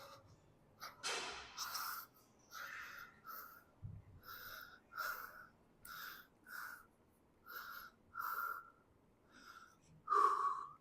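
A person breathing heavily in short, noisy breaths roughly once a second, the loudest breath near the end.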